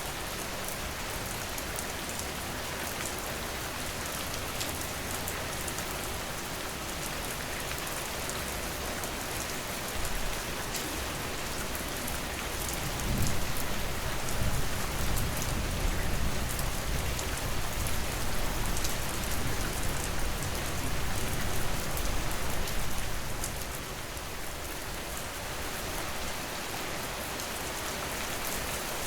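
Steady rain falling on a surface: an even hiss with scattered sharp drop ticks. About halfway through, a low rumble swells up and dies away some ten seconds later.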